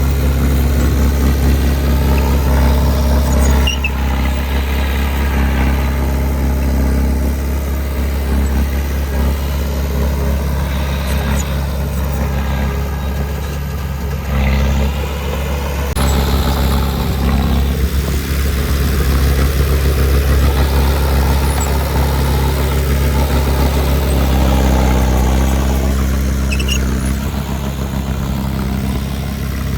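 Heavy earthmoving machine's engine running with a steady low drone that shifts in level now and then.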